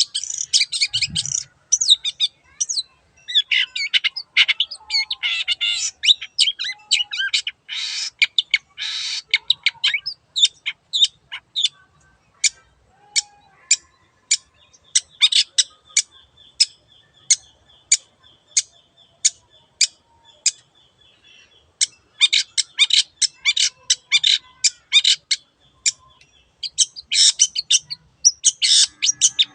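Long-tailed shrike (cendet) singing: fast runs of short, sharp chattering notes in bursts, with a sparser stretch of single spaced ticks in the middle.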